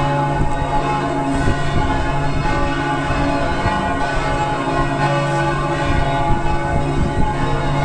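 Church bells ringing, several bells sounding together in a steady, overlapping peal.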